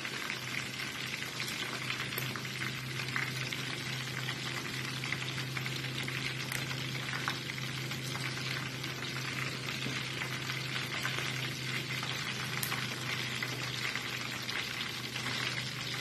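Chicken pieces frying in hot oil in a pan: a steady sizzle with many small crackling pops.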